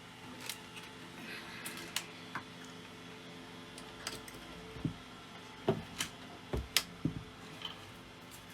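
Scattered small clicks and knocks of hands and tools handling a cassette deck on the bench, irregular and heaviest just after the middle, over a steady low hum.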